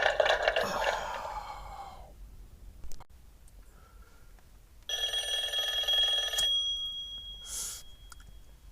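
Telephone ringing. One ring fades out over the first two seconds, and another starts about five seconds in and lasts about a second and a half, its tone hanging on briefly after.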